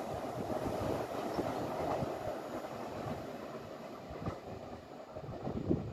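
Taiwan Railways E1000 electric push-pull express train running away at speed after passing through, its wheels rumbling and clacking on the rails and growing fainter.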